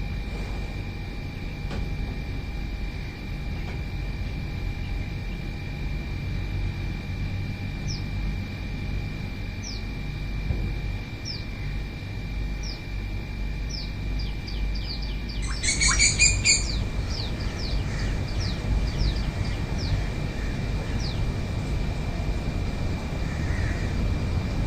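Birds calling: a run of short, high, downward-sliding chirps that come quicker partway through, with one louder call of a bird about 16 seconds in, over a steady low rumble and a thin steady high tone.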